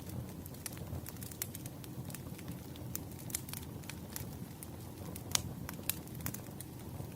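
Burning firewood: irregular sharp crackles and pops over a steady low rumble of the fire, with one louder pop a little after five seconds in.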